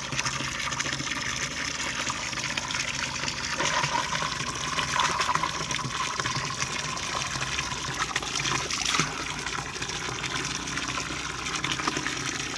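Running water flowing in a steady rush, with a brief sharp sound about nine seconds in.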